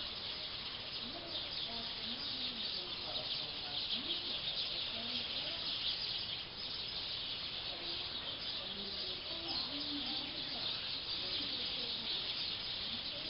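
Dense, continuous chatter of a large flock of black birds gathering in a tree to roost: many overlapping high chirps and calls with no break.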